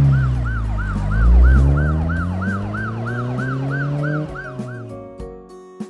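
Police car siren sound effect: a fast wail rising and falling about three times a second, over a low engine drone that sinks in pitch and fades about five seconds in. Music begins just before the end.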